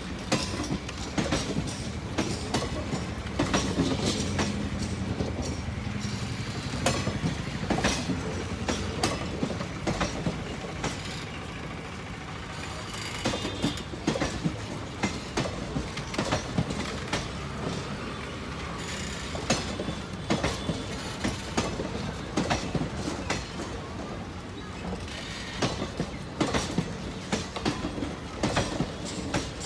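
Passenger train coaches rolling past on the adjacent track. The wheels click and clack irregularly over the rail joints above a steady rumble.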